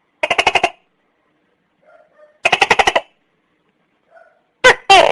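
Tokay gecko calling: two quick rattling trains of pulses about half a second each, then near the end the first loud, two-part 'to-kay' notes of its call.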